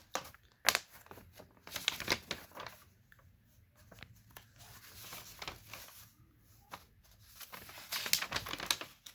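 Ceiling-fan packaging being handled: plastic bags and cardboard rustling and crinkling in irregular bursts, with a few sharp clicks, the loudest about a second in and another cluster near the end.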